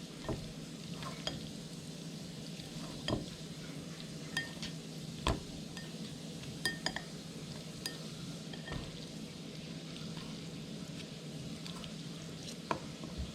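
Cooking at a pan: a metal utensil stirring and clinking against the pan, a dozen or so sharp clinks at irregular intervals, over a steady low hum.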